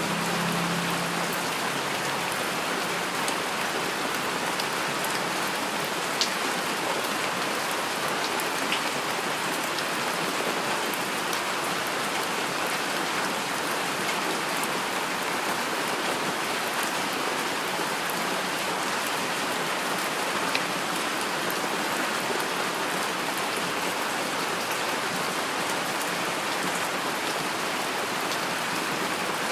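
Steady rainfall pattering on a surface, with a few louder single drop hits standing out now and then.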